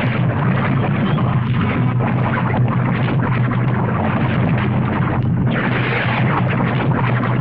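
Recording of a volcano erupting: a loud, continuous deep rumble dense with crackles and small bursts, dipping briefly about five seconds in.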